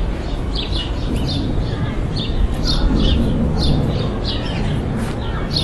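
Small birds chirping over and over, short high chirps about two or three a second, over a steady low rumble.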